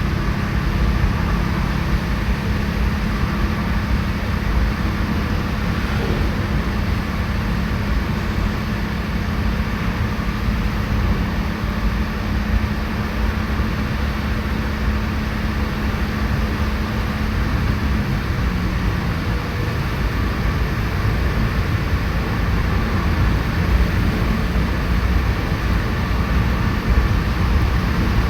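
Car driving on the road: steady tyre and engine noise with a low hum that shifts about two-thirds of the way through.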